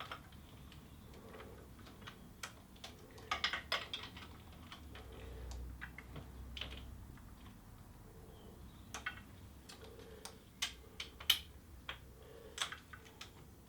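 Irregular small clicks and taps of washers and nuts being fitted by hand onto the handlebar clamp bolts, with a quick cluster of clicks a few seconds in and scattered single clicks after.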